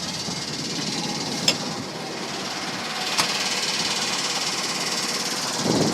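Bucket truck's engine idling steadily, with two sharp clicks about a second and a half and three seconds in.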